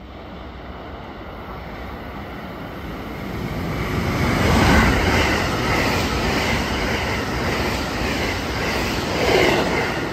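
A train running through the station at speed: its rumble builds over the first few seconds, is loudest about five seconds in and stays loud with repeating clatter from the wheels, swells again near the end, then begins to fade as it passes.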